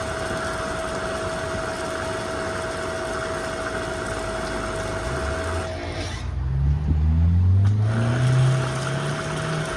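An engine running steadily with a constant whine. About six seconds in the sound breaks off and an engine revs up, rising in pitch for about two seconds and growing louder. Then the steady running returns.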